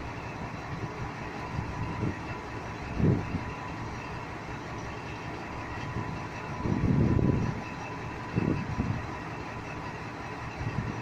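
Works train of flat wagons carrying track-maintenance machinery rolling slowly past with a steady rumble. Several heavier low thumps stand out, the loudest and longest about seven seconds in.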